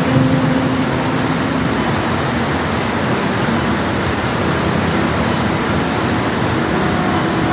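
Steady, dense rain, an even wash of noise without a break. A faint low hum sits under it at the start, and a few faint tones come in near the end.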